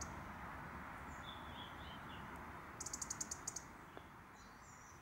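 Small birds calling over a steady outdoor hiss: a short warbling phrase about a second in, a quick run of sharp, high chips about three seconds in, and a few falling notes near the end.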